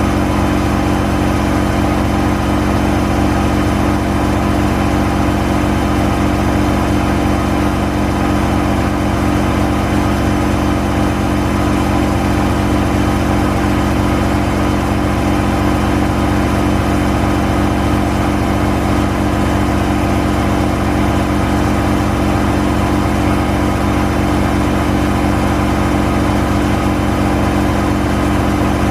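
Gorenje WPAM74SA1T washing machine running: a steady motor hum that holds one constant pitch throughout.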